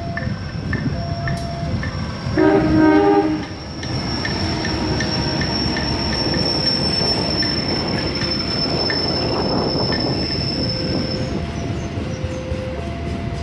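Train passing a railway level crossing: the crossing's warning alarm repeats an alternating two-tone signal while the train sounds its horn once for about a second, then runs by with rumbling wheels and a long, high wheel squeal that fades out about two-thirds of the way through.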